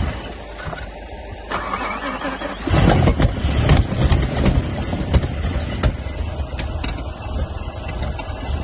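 BMW M5 E60's V10 engine cranking and catching, then running unevenly with irregular pops and sputters from about three seconds in: the misfiring of an engine that won't start and run properly after its rebuild.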